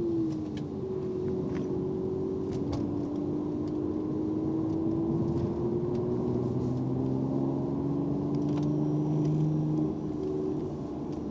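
Mercedes-AMG C43's twin-turbo V6 running at moderate revs on part throttle through slow corners, a steady hum whose pitch climbs slowly and then drops near the end, heard inside the cabin.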